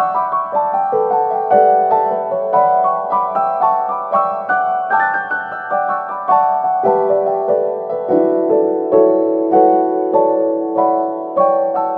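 Background piano music: cascades of quick, falling notes over held lower notes.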